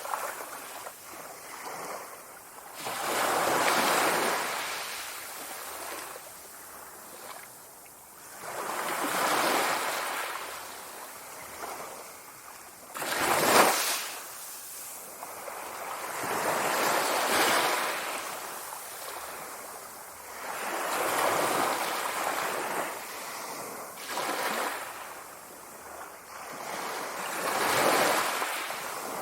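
Sea waves breaking and washing ashore, the surf swelling and fading about every four seconds, with one sharper crash about halfway through.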